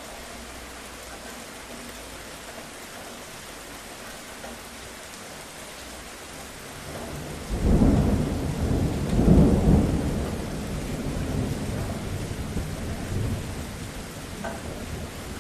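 Steady rain falling, then about halfway through a rumble of thunder breaks in, loudest over its first two seconds and slowly rolling away.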